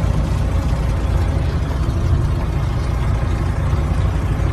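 Steady low rumble of a motor vehicle's engine and road noise, even throughout with no distinct knocks or impacts.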